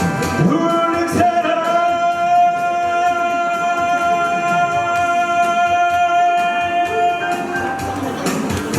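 Live pop song performance to a backing track: a singer holds one long, steady note for several seconds while the drum beat carries on underneath, then the accompaniment continues on its own.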